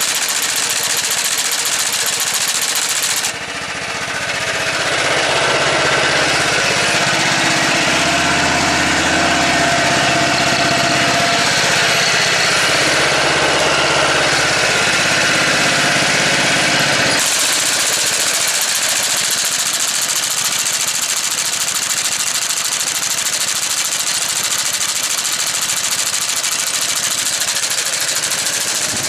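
Motor Sich walk-behind tractor engine running with an Artania MA 300 sickle bar mower attached, a dense fast clatter from the reciprocating cutter bar. From about 3 s to about 17 s a deeper engine note with wavering pitch comes in over it, then the earlier sound returns.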